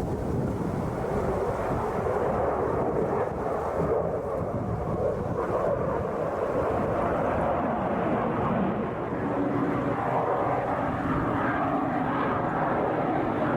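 Jet noise from a Su-57 fighter flying an air-show display: a steady, dense rushing sound whose pitch shifts slowly as the jet manoeuvres.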